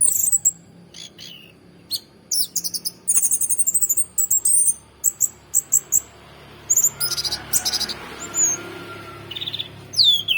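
Orange-headed thrush singing: quick, high-pitched chirps and rapid trills in short bursts separated by brief pauses.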